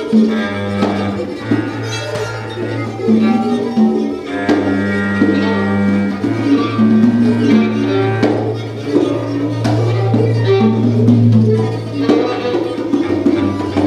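Live free-improvised ensemble music: long held low notes under shifting higher pitched lines, with frequent hand-drum strikes from congas.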